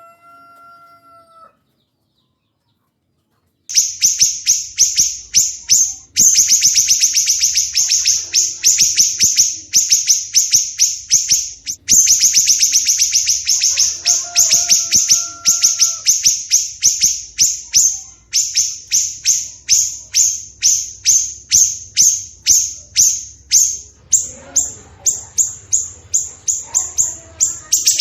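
Recorded songbird song: after a faint short whistle and a pause of about two seconds, a loud run of sharp, high, repeated notes fired very fast, easing to a slower string of separate notes in the last seconds. A brief steady whistle sounds underneath about halfway through.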